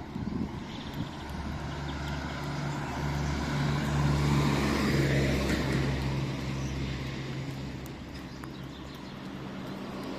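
A motor vehicle's engine and tyre noise swelling as it passes, loudest about four to five seconds in, then fading, over a steady low engine hum.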